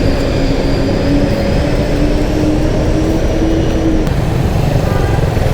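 Motorcycle engine running under way with road and wind noise, its pitch climbing gradually as the bike speeds up, then dropping away about four seconds in as the throttle eases.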